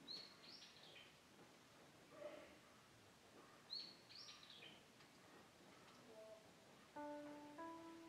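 A small bird calling faintly twice, each call a quick run of three or four high, falling notes, one right at the start and one about four seconds in. Soft instrumental music comes in near the end.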